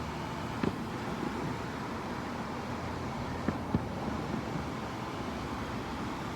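Distant fireworks going off: a few short, sharp bangs over a steady background rumble.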